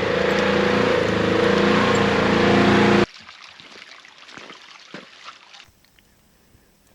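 Utility vehicle engine running steadily, cut off abruptly about three seconds in, followed by faint scattered ticks and rustles.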